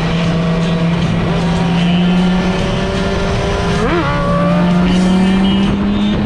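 A vehicle engine running at a steady pace, its note creeping slowly higher, with a quick rise and fall in pitch about four seconds in, like a brief blip of the throttle.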